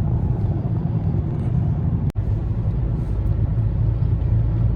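Steady low road rumble of a moving vehicle heard from inside, with a momentary break about two seconds in.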